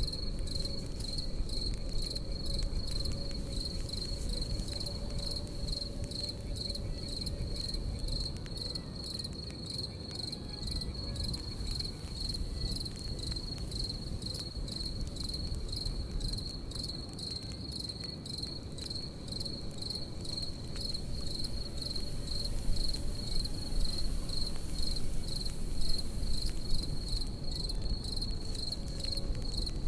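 Crickets chirping in a steady, high pulsing trill over the low rumble and frequent small crackles of a campfire.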